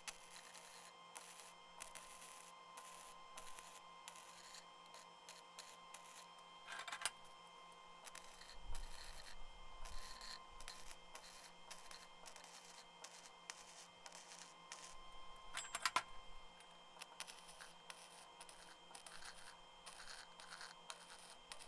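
Flux-core wire-feed welder arc crackling in irregular runs while welding square steel tubing, over a faint steady hum.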